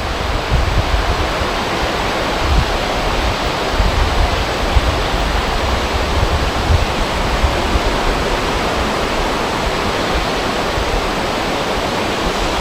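Wind over a river: a steady, even rushing of wind and moving water, with wind buffeting the microphone in an uneven low rumble.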